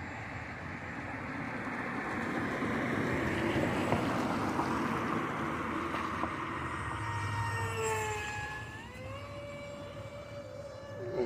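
Electric motor and propeller of a HobbyZone AeroScout S2 RC plane whining, swelling in loudness toward the middle, then rising in pitch as the throttle comes up near the end.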